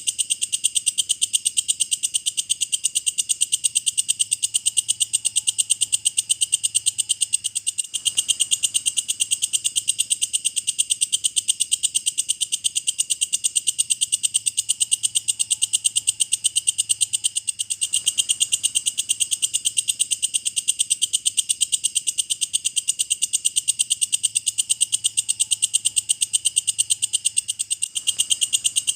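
Walang kecek bush cricket calling: a shrill, fast and even train of chirps that runs on without pause except for a brief break about every ten seconds.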